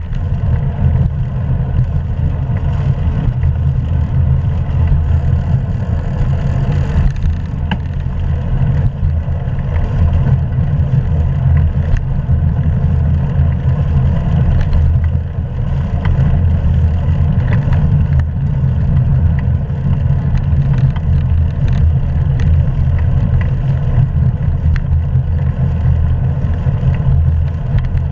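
Steady low rumble of wind buffeting the microphone of a GoPro action camera riding along on a moving bicycle.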